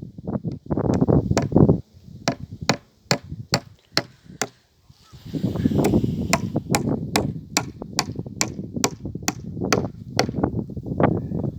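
A rapid, even run of sharp knocks, about two and a half a second, over gusts of wind buffeting the microphone.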